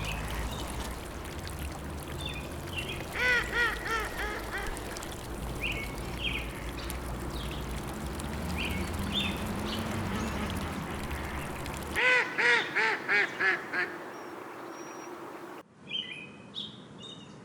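Ducks quacking in two quick runs of calls, the second louder, over a steady background with scattered bird chirps. Near the end the background cuts away abruptly, leaving only bird chirps.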